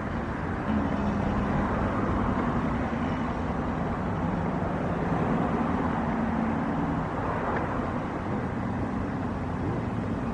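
An engine running close by, with a low hum that comes up about a second in and fades after about seven seconds, over steady background noise.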